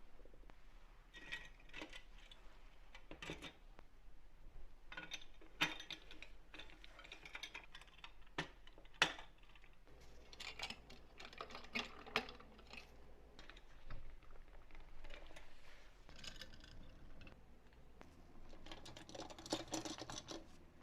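Irregular light clicks, taps and small knocks of hard parts being handled and fitted together by hand, with a couple of sharper knocks in the first half and a busier run of clicking near the end.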